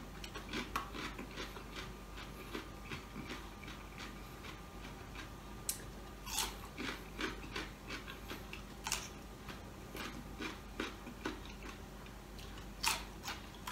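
Close-up chewing of a raw cucumber stick: a run of small wet crunching clicks, with a few louder crunches midway and near the end as it is bitten.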